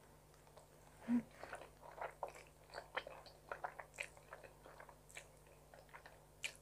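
Close-up mouth sounds of a person chewing a mouthful of tuna carbonara spaghetti: faint, irregular wet smacks and small clicks, with a short low hum about a second in.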